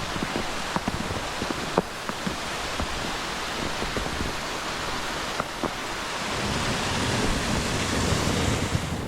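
Snowstorm outdoors: a steady hiss of wind and falling snow, with a few sharp ticks. A low rumble of wind on the microphone builds over the second half.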